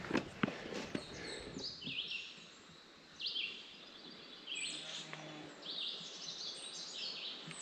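A songbird singing short, repeated phrases of high, downward-slurred notes about every second, over a steady background hiss. A few footsteps crunch in the first second.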